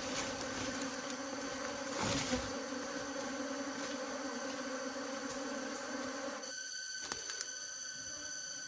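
Honey bees buzzing in a dense, steady drone that cuts off suddenly about two-thirds of the way through, followed by a few sharp clicks. Steady high insect trilling carries on underneath.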